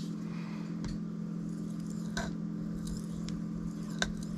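Knife blade being stroked across a Shapton Kuromaku waterstone, a soft scraping with a few light clicks spaced about a second apart, over a steady low hum.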